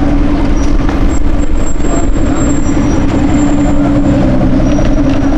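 Aston Martin Vanquish Zagato Shooting Brake's V12 idling steadily, heard close behind its quad exhaust tips.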